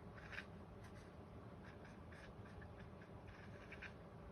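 Faint, short scratching strokes of a drawing tool on paper, several in a row, as small feathers are drawn one after another; the first stroke is the loudest.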